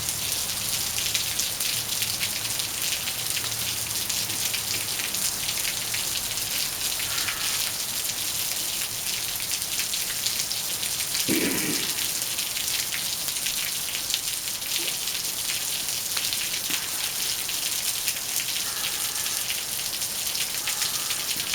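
Steady rain falling: an even hiss of countless drops with many small ticks and splashes, heard from under a patio roof. A brief low sound stands out about halfway through.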